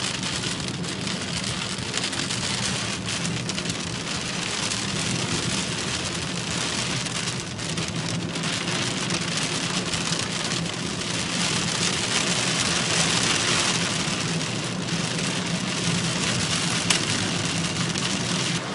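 Torrential rain hammering on a moving car, a dense steady hiss with the car's engine humming low underneath. A single sharp click sounds near the end.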